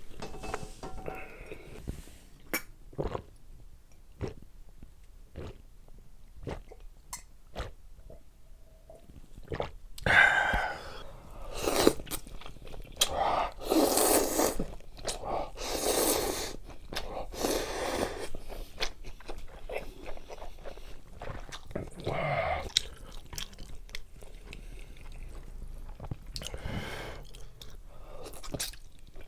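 A person eating close to the microphone: chewing and crunching with small mouth clicks, growing louder and busier partway through.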